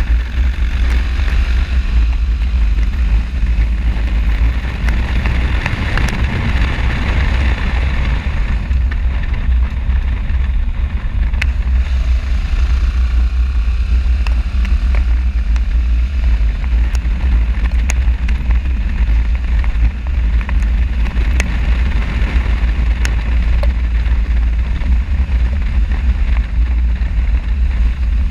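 Wind rushing over an action camera's microphone on a moving motorcycle, a steady loud rumble with riding noise underneath and a few faint ticks.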